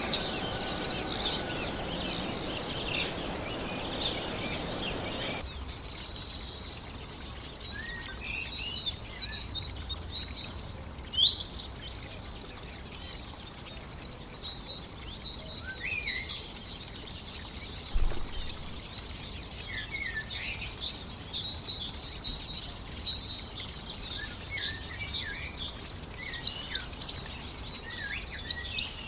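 A chorus of many small birds chirping and twittering, short high notes overlapping almost constantly. For the first five seconds or so a steady hiss runs underneath and then cuts off suddenly, leaving the birds clearer.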